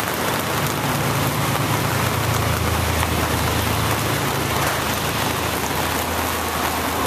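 Steady rain falling on a wet street, with the low hum of a car driving along the wet road, swelling through the middle and fading near the end.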